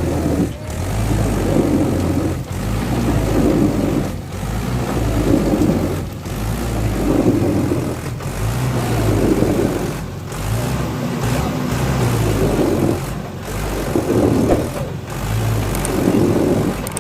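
Mahindra 475 DI tractor's diesel engine running hard, its note swelling and easing every second or two, with several abrupt brief breaks in the sound.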